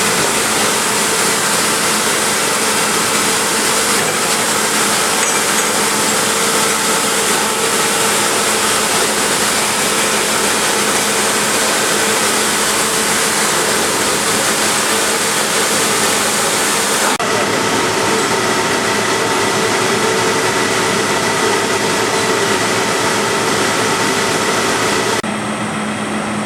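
Production double disc grinder running, a loud steady machine hiss with several steady hum tones. The sound changes abruptly about two-thirds of the way through, losing much of its hiss, and drops a little in level near the end.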